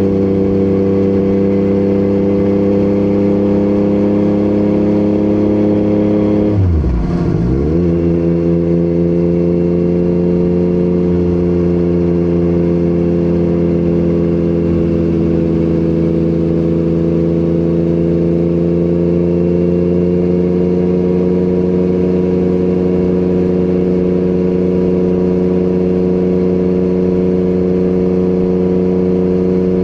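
Yamaha MT-09 inline-three engine through an Akrapovic exhaust, running at steady revs under way. About seven seconds in the revs drop sharply and climb straight back.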